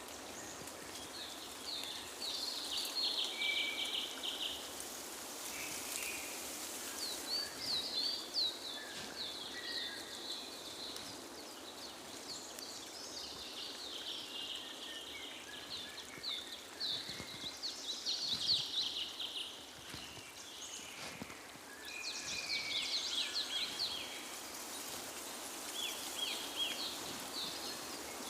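Songbirds singing in short, fast trilled phrases that recur every few seconds, over a steady background hiss of outdoor ambience.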